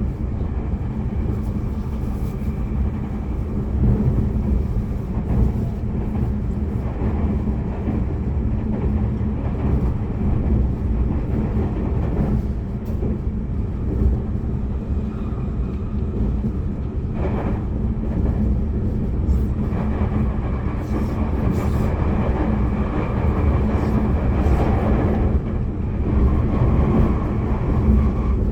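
Running noise of a Tobu Railway limited express train heard from inside the passenger cabin: a steady low rumble of wheels on rail at speed. There is a short sharp sound about two-thirds of the way through, and a stretch of louder, higher noise after it.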